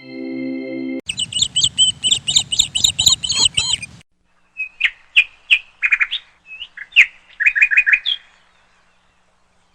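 Small bird chirping: a dense run of rapid high chirps for about three seconds, then after a short gap a few sharp single calls and a quick run of four or five notes.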